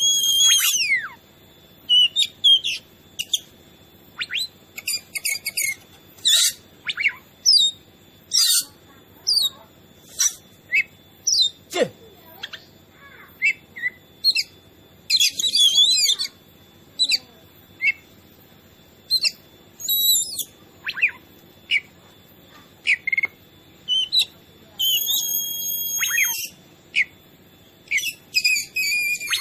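Oriental magpie-robin singing: bursts of short, varied, high-pitched whistled phrases and trills with brief pauses between them, and a run of quick repeated notes near the end.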